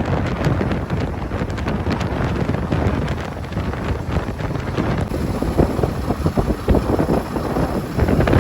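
Wind buffeting the microphone of a Royal Enfield Himalayan 450 on the move, with the engine running underneath. About halfway through, the hiss thins and the engine's uneven low pulses come through more plainly.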